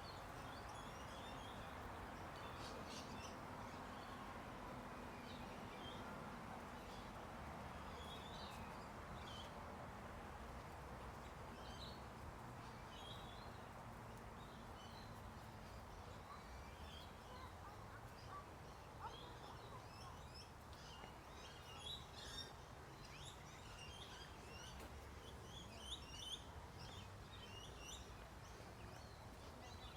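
Birds chirping and calling: many short high calls scattered throughout, getting busier in the second half, over a faint steady background noise.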